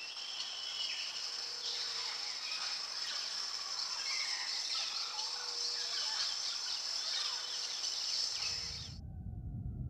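Forest ambience: a steady high insect drone with scattered bird calls over it. Near the end it cuts off suddenly and gives way to a low rumble.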